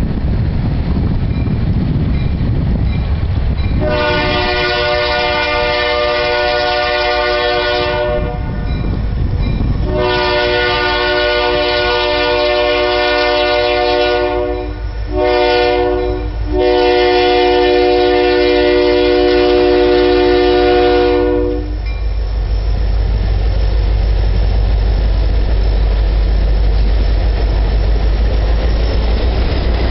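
Diesel locomotive chime horn sounding the grade-crossing signal: two long blasts, a short one, then a final long one. A low diesel rumble runs underneath and grows heavier near the end as the locomotives come by.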